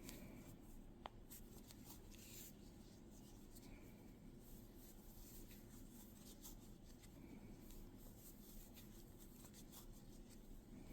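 Faint rustling and light ticks of a crochet hook drawing yarn through stitches while working single crochet into a magic circle, over a low steady room hum, with one sharp click about a second in.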